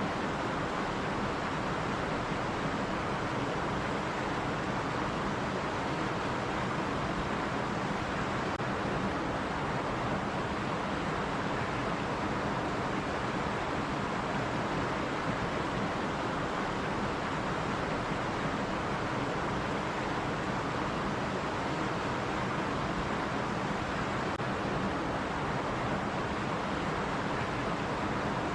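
Stream water running steadily over rocks: an even, unbroken rushing.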